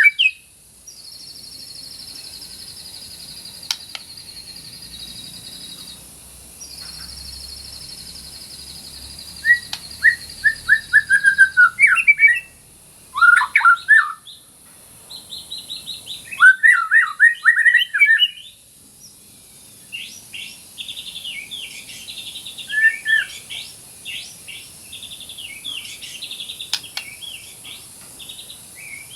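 White-rumped shama (murai batu) singing: two long, even, high trills of about five seconds each, then bursts of quick, varied whistled and chattering phrases.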